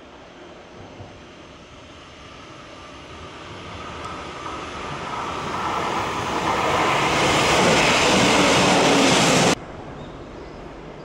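Electric local passenger train approaching and passing close by on the rails, growing steadily louder, then cutting off suddenly about nine and a half seconds in.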